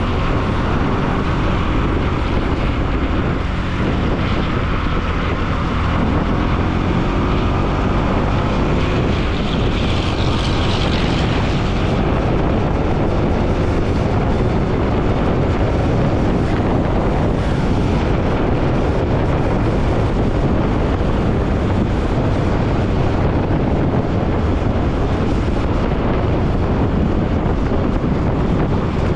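Wind rushing over the microphone of a moving Bajaj Pulsar NS200 motorcycle, with its single-cylinder engine running underneath as a steady, loud noise.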